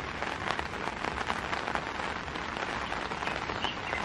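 Steady rain falling on the tent fabric, heard from inside the tent: a constant hiss scattered with many small drop ticks.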